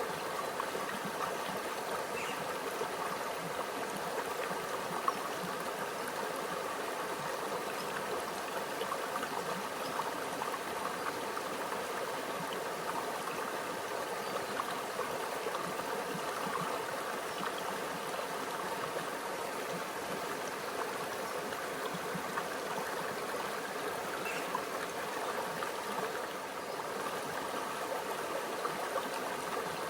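Small stream flowing over rocks: a steady trickling and babbling of running water.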